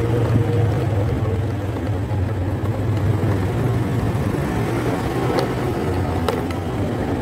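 Motorcycle engine running steadily at low speed, heard from the rider's seat, with a steady low hum and road noise.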